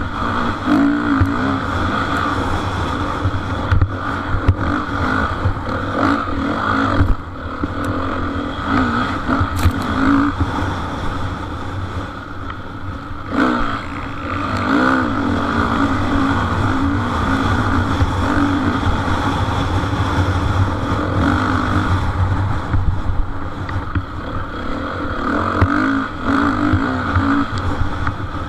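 Motocross bikes racing, their engines revving up and down with the throttle, with brief dips in the sound about 7 and 13 seconds in.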